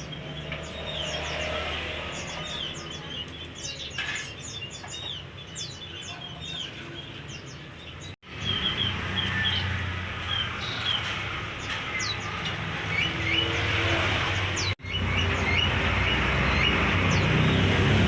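Many small caged songbirds chirping and twittering together, over a steady low rumble. The sound cuts out for an instant twice, about 8 and 15 seconds in.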